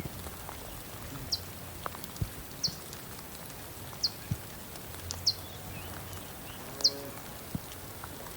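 A small bird repeating a short, high, downward-slurred chirp about every second and a half, over a steady outdoor background hiss with a few soft knocks.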